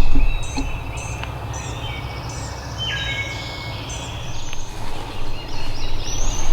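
Several songbirds singing in the woods: overlapping whistled phrases and repeated chirps, some falling in pitch. A steady low rumble runs underneath, loudest near the start.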